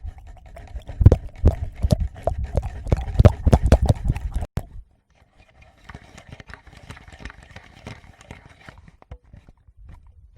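Fingertips tapping and rubbing on a Tascam portable recorder's microphones: rapid knocks with heavy low thuds that stop suddenly about four and a half seconds in. After a short pause, fainter crackling clicks follow.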